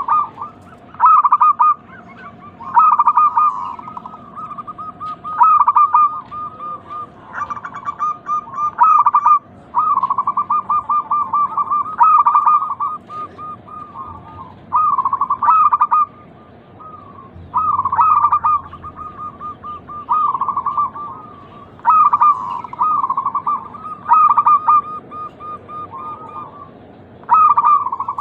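Zebra doves (perkutut) cooing: short, rapidly pulsed trilling coos repeated every second or two, with fainter birds answering between the loudest calls.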